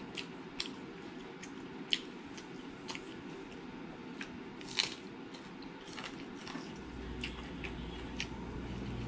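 Close-up eating sounds: a person chewing and biting food, with scattered sharp wet clicks and smacks of the mouth and a crunchy bite a little before the middle. A low steady hum comes in about seven seconds in.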